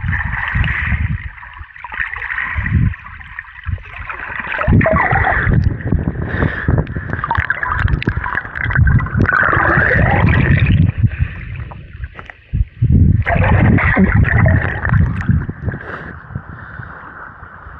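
Lake water gurgling and sloshing around swimmers, with irregular splashes. It sounds muffled, with little high end.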